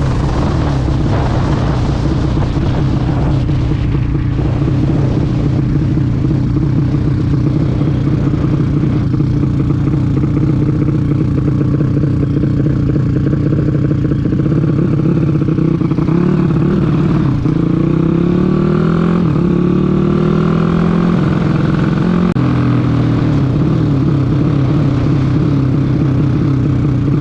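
Racing motorcycle engines running loudly at steady revs. Between about 16 and 22 seconds a second engine's pitch rises and falls against the first.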